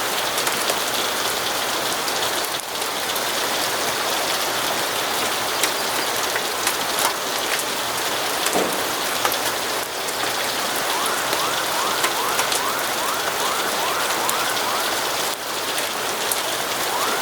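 Steady rain with scattered small sharp ticks. From about eleven seconds in, a faint siren joins it in a fast rising yelp of about three sweeps a second.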